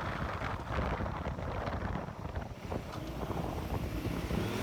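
Wind rushing over the microphone of a moving motorcycle, with the engine's low drone underneath.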